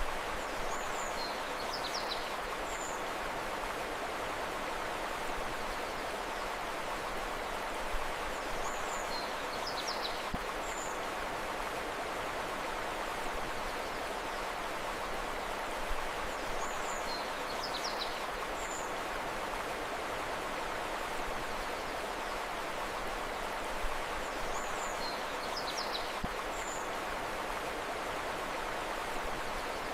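Steady rushing of river water, with a short burst of high bird chirps that recurs about every eight seconds.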